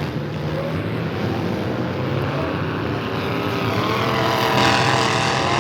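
Demolition derby car engines running hard, several at once. In the second half one engine revs up, rising in pitch and getting louder.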